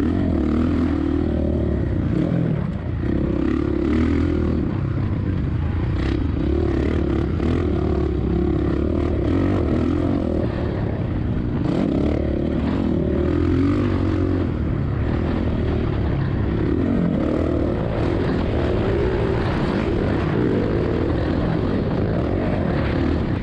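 Four-stroke motocross bike engine running steadily, the pitch wavering slightly with the throttle, with wind rushing over the microphone.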